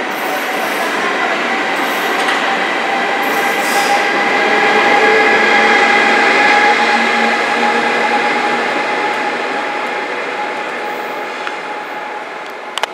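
ÖBB Railjet passenger train rolling past a station platform, with the rush of wheels on rail and a steady squeal of several held tones. It grows loudest about halfway through as the locomotive end passes, then fades as the train pulls away, with a couple of sharp clicks near the end.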